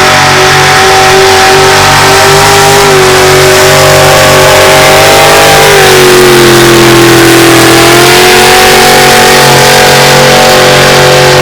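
A competition pulling truck's engine at full throttle, held at steady high revs while it drags the weight sled down the track. The pitch sags for a couple of seconds midway, recovers, and then falls off sharply as the run ends.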